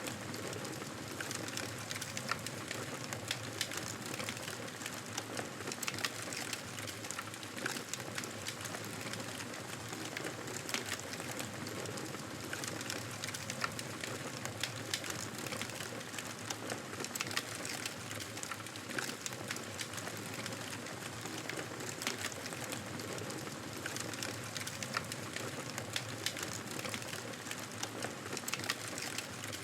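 Campfire burning, the wood crackling steadily with frequent sharp pops and snaps at irregular intervals.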